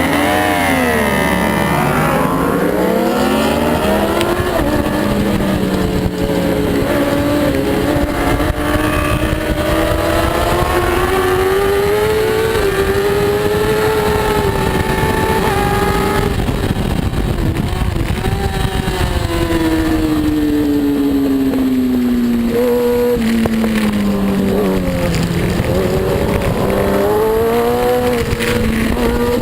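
Superbike engine at racing speed, its pitch climbing as it pulls hard through the gears and dropping sharply on the downshifts into corners several times, over a steady rush of wind noise.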